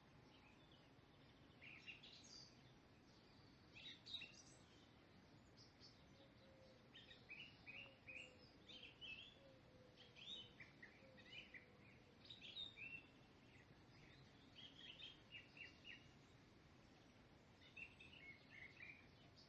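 Faint birdsong: many short, high chirps in quick clusters, with brief pauses between, over a quiet steady hiss.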